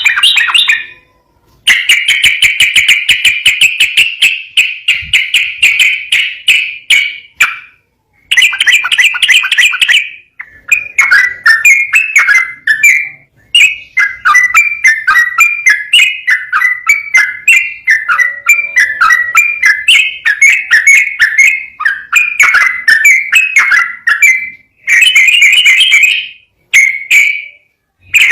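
Yellow-vented bulbul (trucukan) singing a fast, continuous run of chattering, bubbling phrases in several long bursts separated by brief pauses.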